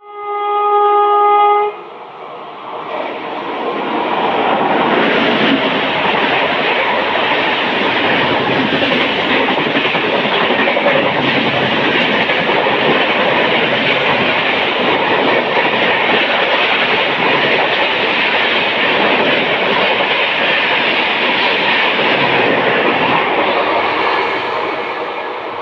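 An Indian Railways WAP7 electric locomotive sounds one steady horn blast of under two seconds. Its passenger train then runs past at speed, a continuous loud rushing rumble with wheel clatter that eases a little near the end.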